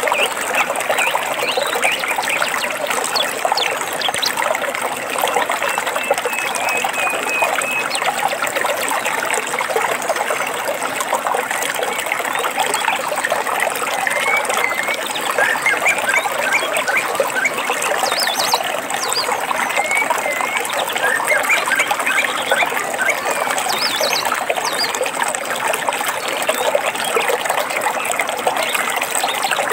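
Water trickling and splashing steadily, as in a small stream, with birds chirping now and then over it and a few brief high trills.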